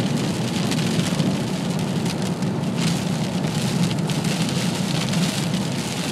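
Heavy thunderstorm rain hitting a vehicle steadily as a dense patter of fine ticks, over a steady low hum from the vehicle.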